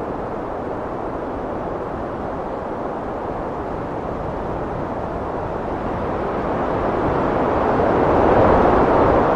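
Heavy wind blowing as a steady rush of noise, building to a louder gust in the last few seconds.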